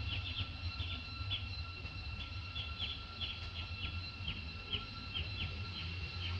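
A bird chirping repeatedly, about two short falling chirps a second, over a steady low rumble.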